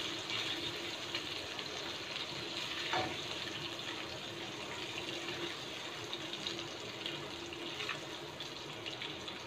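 Shrimp frying in butter in a nonstick wok: a steady crackling sizzle, with light scrapes of a plastic spatula and one small knock about three seconds in as the cooked shrimp are lifted out.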